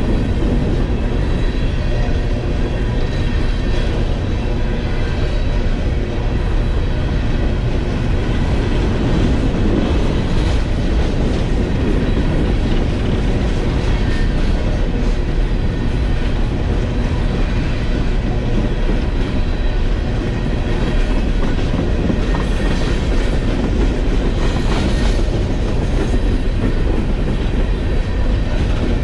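Freight train of coal hopper cars rolling past: a steady rumble with the wheels clacking over the rail joints, and a couple of sharper bursts of noise near the end.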